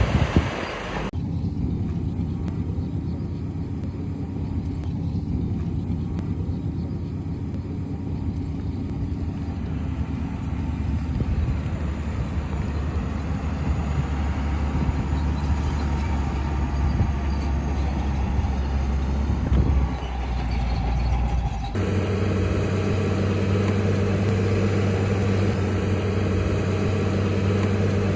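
Heavy diesel earthmoving machinery running steadily, a bulldozer or dump truck engine, with a low constant hum. About a second in, a noisy rush gives way to the engine. Near the end the engine sound switches abruptly to a different, slightly higher steady tone.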